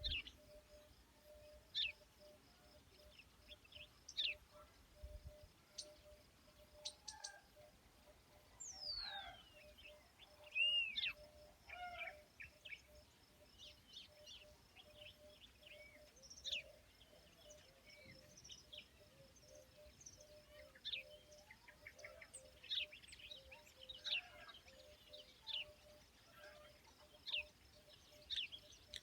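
Wild birds chirping and calling, with short, sharp high chirps throughout and a clear falling whistle about nine seconds in.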